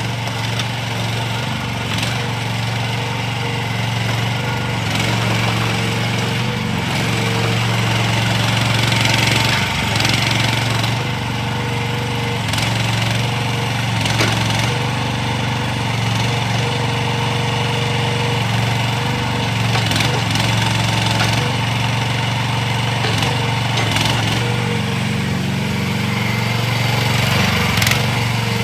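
2024 AGT H12R mini excavator's engine running steadily, with a few sharp knocks now and then.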